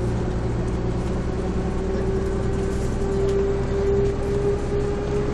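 Mercedes-Benz OM447hA horizontal six-cylinder turbodiesel and ZF 4HP590 automatic gearbox of a 1996 Jelcz M122MB city bus running with the bus under way, heard inside the bus. A steady engine hum lies under a whine that slowly rises in pitch and grows louder.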